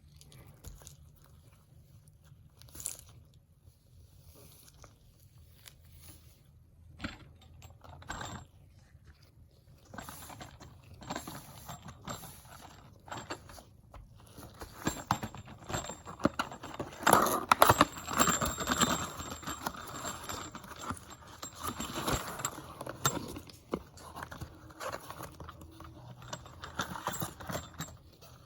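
Hands handling an Umarex Glock 19 CO2 BB pistol and its packaging: scattered clicks, scrapes and rustling, sparse at first and busier and louder from about halfway in.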